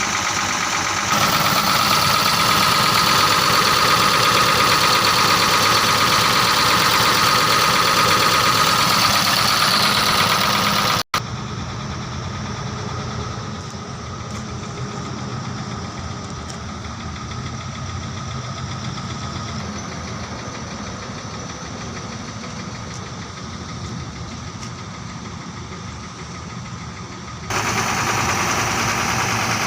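Ashok Leyland 3118 cargo truck's diesel engine idling steadily. About eleven seconds in the sound cuts out for a moment and comes back quieter, then jumps back up near the end.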